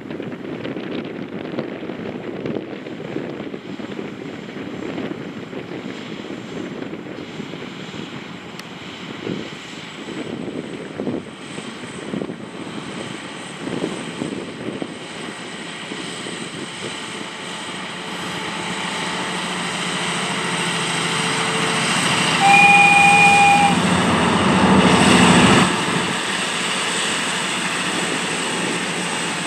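Diesel train approaching and growing steadily louder, sounding one short horn note of about a second before it comes loudest.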